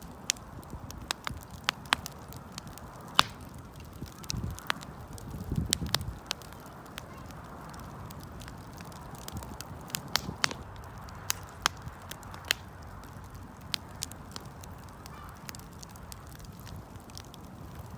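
Wood campfire crackling, with scattered sharp pops and a low rumble swelling briefly about five to six seconds in.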